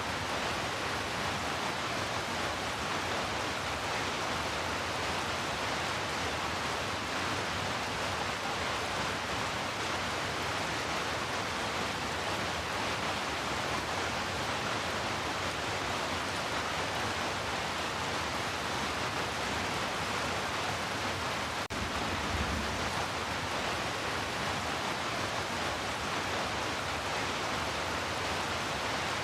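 Heavy rain falling steadily, an even hiss with no single drops standing out. About three-quarters of the way through there is a faint tick followed by a brief low rumble.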